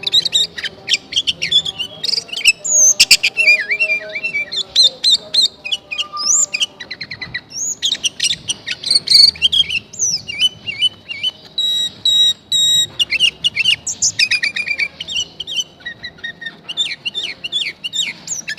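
Sooty-headed bulbul (kutilang) calling loudly: a busy run of quick chirps and whistled, up-and-down notes, one after another with only short gaps.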